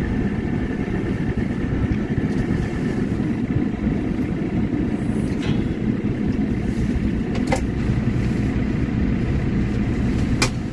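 Claas tractor engine running steadily with a low, even rumble, with a few brief sharp clicks in the second half.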